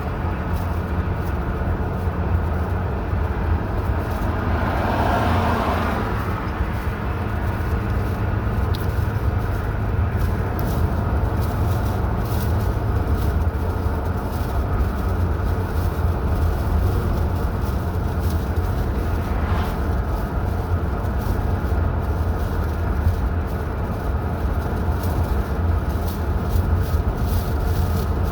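Car driving along a highway: a steady low rumble of engine and tyres on the road, with a brief swell of noise about five seconds in.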